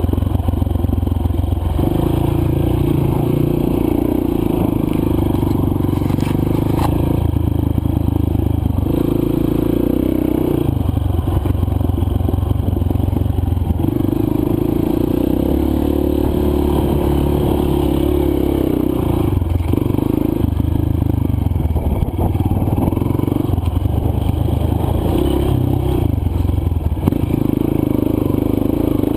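Single-cylinder four-stroke dirt bike engine running under load while riding a trail. The engine pitch holds for a few seconds at a time, then steps up or down as the throttle opens and closes, with some clattering and scraping from the bike over rough ground.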